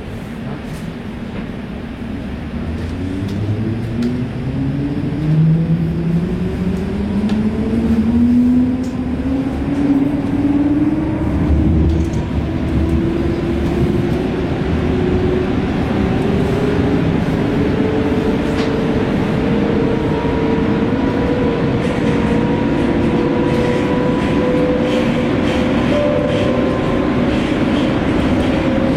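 Electric tram accelerating: the traction motors' whine rises slowly in pitch over a rolling rumble, levelling off near the end as the tram reaches cruising speed.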